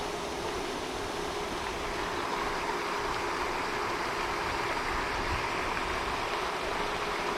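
Steady rushing splash of a pond fountain's spray falling back onto the water, with a faint steady hum underneath.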